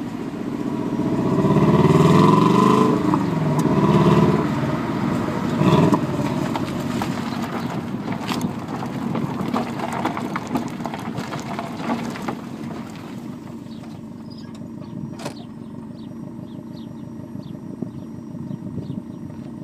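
Subaru Legacy GT-B's twin-turbo flat-four heard at the stock exhaust, revved up and back down twice and blipped once more, then idling steadily and growing quieter.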